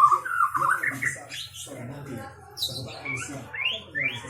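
White-rumped shama (murai batu) singing: quick runs of varied whistled notes and sliding phrases, with fast rising sweeps near the end.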